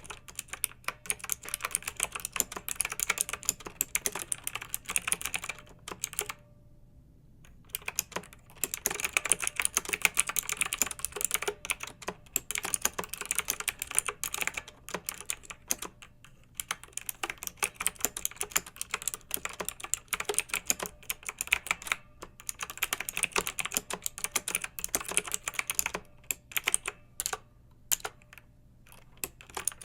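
Fast typing on a clicky mechanical keyboard: dense runs of sharp keystrokes, broken by a pause of about a second and a half some six seconds in and a few short pauses near the end.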